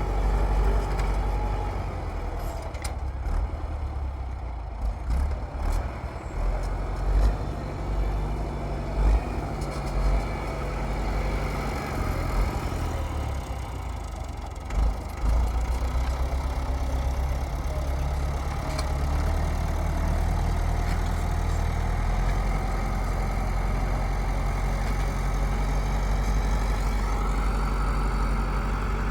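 A vehicle engine running steadily with a low hum, with a few knocks or bumps standing out in the first half.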